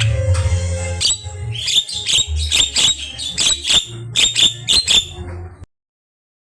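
Javan myna (jalak kebo) singing a fast run of sharp chattering and whistled calls over a steady low hum. The sound cuts off abruptly near the end.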